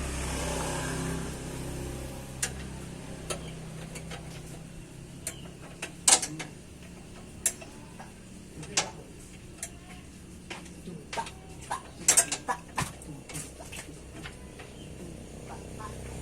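Scattered sharp metal clicks and knocks from hand work on a broken motorcycle exhaust muffler, loudest about six and twelve seconds in, after a low hum that fades in the first two seconds.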